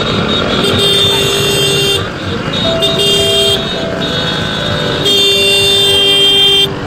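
Vehicle horns honking in busy street traffic: three held blasts, the last the longest, over the general noise of traffic and a crowd.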